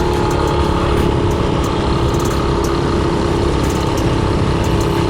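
Predator 224cc single-cylinder four-stroke engine on a mini-bike running at a steady, even speed.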